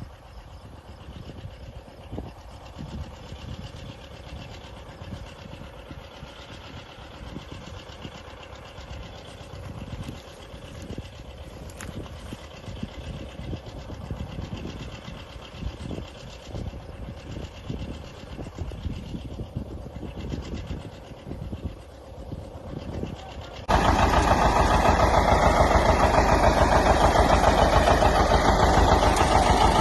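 An old farm tractor engine running, with uneven low pulses. Near the end the sound jumps suddenly to a much louder, denser running.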